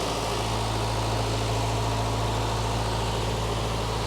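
Case 1840 skid steer's diesel engine running steadily with a constant low drone.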